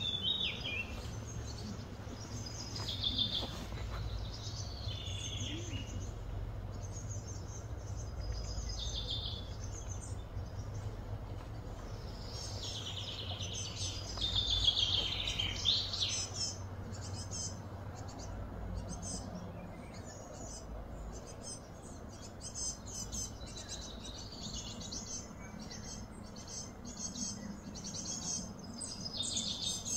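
Small birds chirping and twittering on and off, busiest about halfway through, over a low steady background hum.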